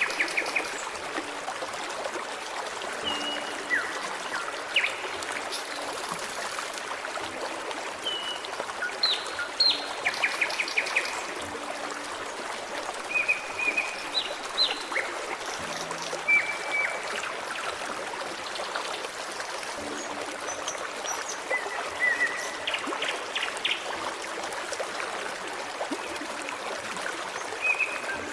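Forest stream running steadily over rocks, with songbirds calling intermittently throughout in short chirps, trills and down-slurred whistles.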